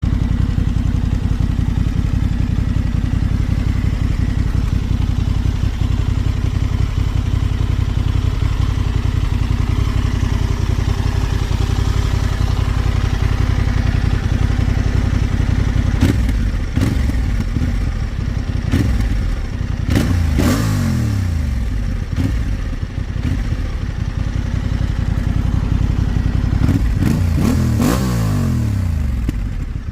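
Honda Transalp XL750's parallel-twin engine running through an SC-Project slip-on exhaust. It idles steadily for about the first half, then is revved in a series of sharp throttle blips, each rising and falling back to idle, with the biggest revs near the end.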